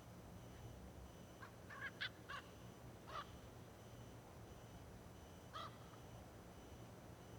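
A few short bird calls, faint in the open air: a quick run of three or four about a second and a half in, then single calls about three seconds and five and a half seconds in, over a low steady background hum.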